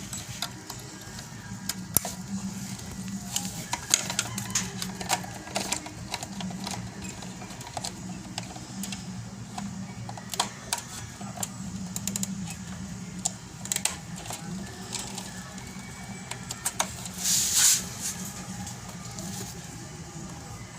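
Scattered clicks and clinks of small parts and hand tools as a car's fuel pump assembly is put back together, over a steady low hum. A short hiss comes about 17 seconds in.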